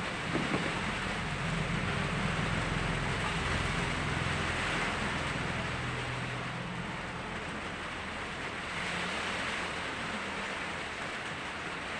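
Heavy rain falling steadily, with a low hum underneath that is strongest in the first half.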